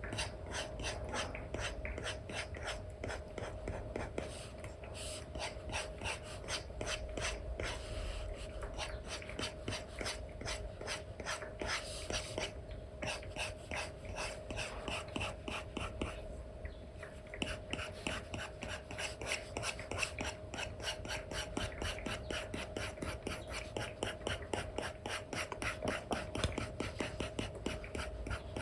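Stylus strokes scratching across a paper-like screen film: an Apple Pencil 2 with an Elecom nib brushed back and forth on an iPad, about three to four quick strokes a second, with two short pauses.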